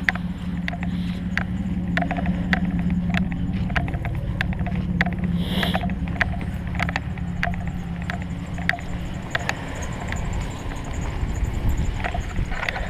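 A vehicle engine idling with a steady low hum that fades about two-thirds of the way through, over scattered light clicks and ticks.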